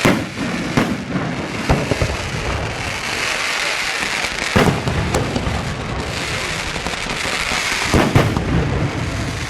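Aerial fireworks display: shells bursting in sharp bangs, several a few seconds apart, over a continuous crackling hiss.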